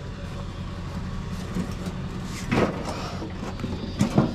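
Vehicle driving: a steady low engine and road rumble, with sharp knocks or rattles about two and a half seconds in and twice near four seconds.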